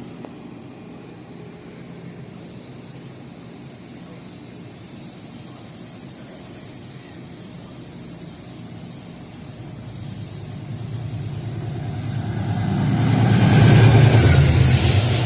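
Diesel passenger train approaching, its locomotive's engine and rail noise growing steadily louder and loudest near the end.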